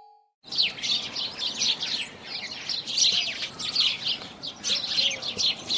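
Bird chirping in rapid, dense runs of short high chirps, starting about half a second in, over a faint steady hiss.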